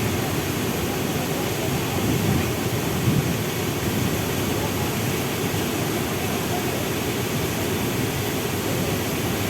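Steady roar of a waterfall, an even rushing noise heaviest in the low range.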